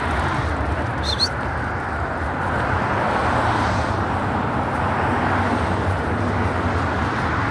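Steady rushing outdoor noise, with a brief high chirp about a second in.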